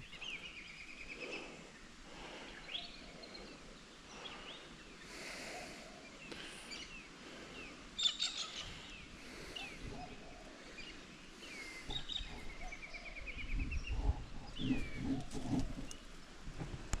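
Several small birds chirping and calling in woodland: short chirps, a few rapid trills and quick downward-sweeping calls, over a faint steady hiss. Low thuds and rumbling come in near the end.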